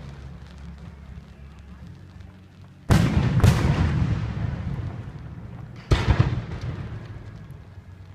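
Aerial fireworks shells bursting at close range: three sharp booms, two about half a second apart near three seconds in and a third about two and a half seconds later, each trailing off in a long rumbling echo.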